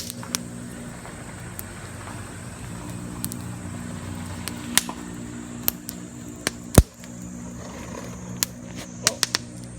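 Wood campfire crackling, with irregular sharp pops, the loudest almost seven seconds in, over a steady low hum.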